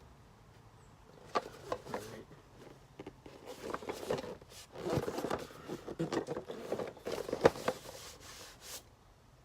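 Cardboard toy packaging being handled and shuffled: irregular rubbing, scraping and light tapping, with a sharp knock about seven and a half seconds in.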